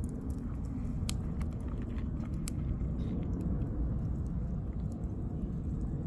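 Wood fire burning in a campfire: a steady low rumble of flames with irregular sharp crackles and pops from the firewood, a few louder snaps among them.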